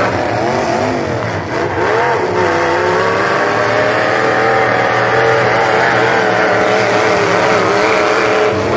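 Several demolition derby cars' engines running and revving at once, their pitch rising and falling unevenly as the cars push and ram each other.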